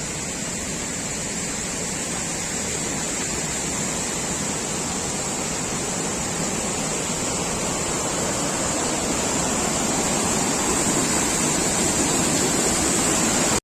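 Heavy monsoon rain pouring down in a steady hiss that slowly grows louder.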